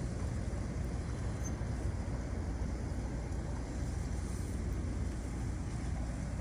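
Steady low outdoor rumble with no distinct events, such as wind on the microphone or distant traffic.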